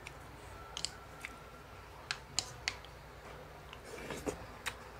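A person chewing a mouthful of bean sprouts and tofu close to the microphone: faint chewing with about ten small sharp crunches and clicks, irregularly spaced.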